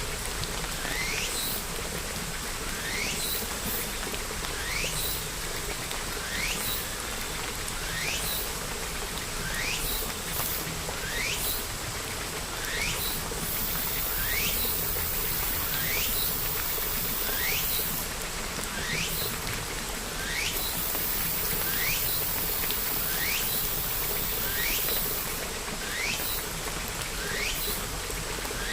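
A bird repeating one short, rising call roughly every second and a half to two seconds, over a steady hiss of rain.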